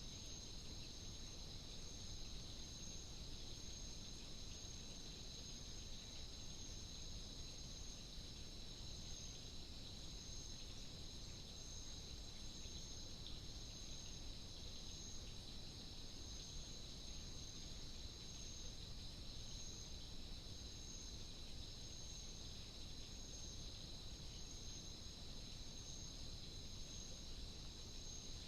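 Steady nocturnal insect chorus of crickets or katydids: two continuous high-pitched trills, the higher one pulsing slowly, over a faint low hiss.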